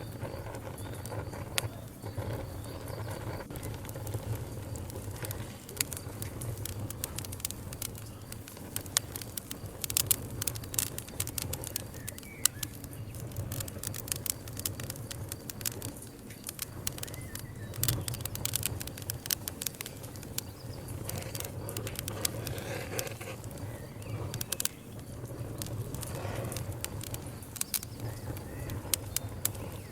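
Wood campfire burning, crackling with many sharp pops and snaps that come in clusters, over a steady low background.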